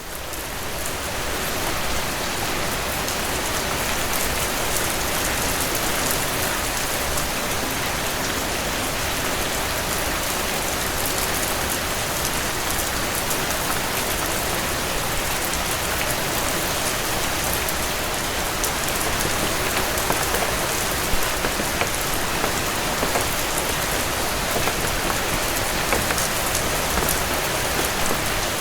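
Heavy rain falling steadily on a porch, fading in over the first second or so, with scattered sharp ticks over the steady hiss.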